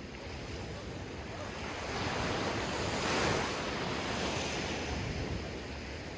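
Ocean surf washing, with wind on the microphone. The wash swells about two seconds in, is loudest near the middle, then eases off.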